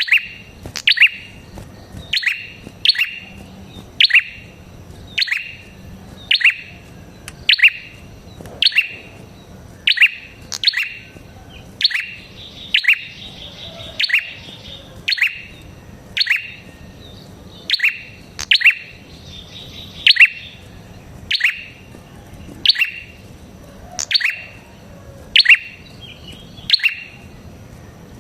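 Red-headed prenjak (a prinia) calling: sharp, loud chirps repeated about once a second, often in quick pairs. Twice a softer buzzy trill runs between the chirps.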